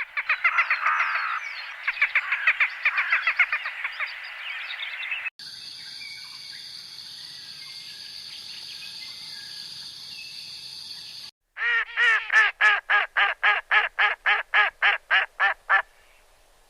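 Animal calls in three abruptly changing stretches: a dense chorus of chirps, then a steady hiss, then a run of evenly spaced, croak-like calls at about four a second.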